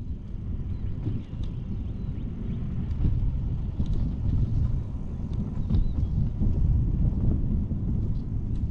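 Wind buffeting the action camera's microphone during an e-bike ride: a steady low rush with a few faint high chirps.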